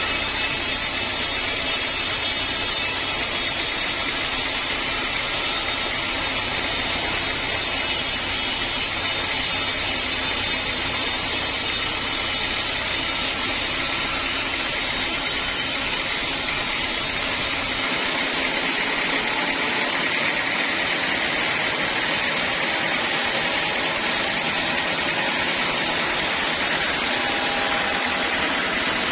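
Sawmill saw running with a steady mechanical noise, strongest in the upper-middle range. The low rumble drops out about two thirds of the way through while the higher noise carries on.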